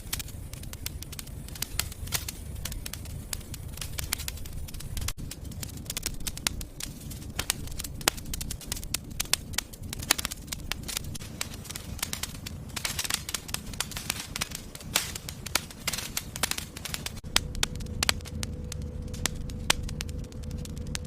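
Wood fire crackling in a fireplace: many sharp pops and snaps over a low rumble of flames. A faint steady tone comes in near the end.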